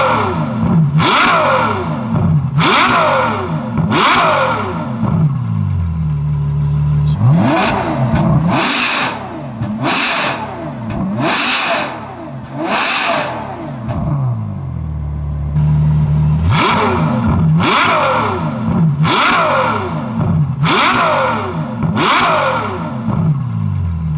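Ferrari F12 Berlinetta's naturally aspirated 6.3-litre V12, breathing through an IPE Innotech valved exhaust, revved repeatedly while standing in neutral. Each blip rises quickly and falls back, about every second and a half, with a couple of longer held revs. The exhaust valves are open at the start and end and closed in the middle.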